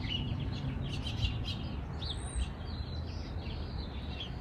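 Small songbirds chirping, with many short high chirps and quick little whistled sweeps, over a steady low background rumble.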